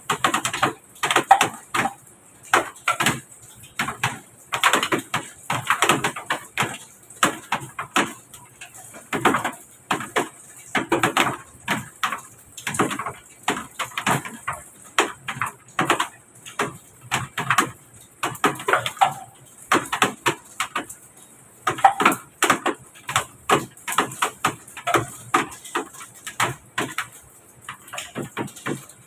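A rapid, irregular series of sharp clicks and knocks, several a second, with short pauses between runs, like hard objects being struck or handled.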